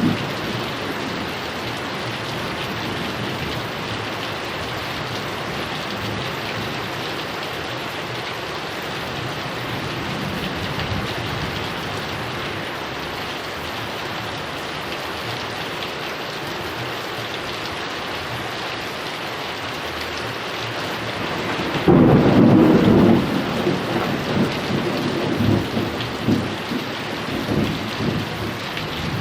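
Heavy rain falling steadily with thunder rumbling low. About three quarters of the way through, a sudden loud thunderclap breaks and rolls on in uneven rumbles.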